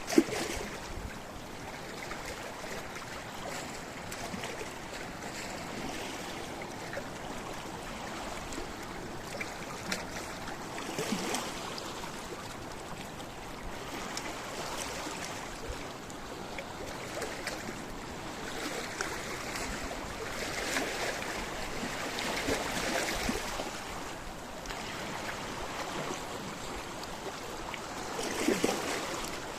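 Sea waves washing onto a rocky shore, a steady rush of water with swells about a third of the way in, in the last third, and a louder one near the end. There is a brief sharp knock right at the start.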